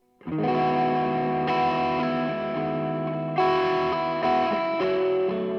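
Electric guitar played through distortion and a delay pedal, starting a song about a quarter second in, with sustained notes and new chords struck at intervals.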